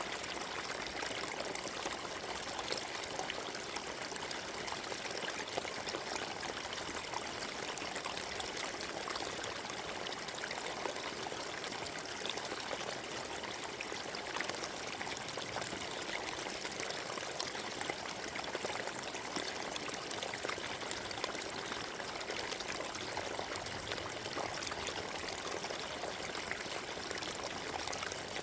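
Forest stream flowing steadily, water rushing and trickling over stones with an even splashing hiss.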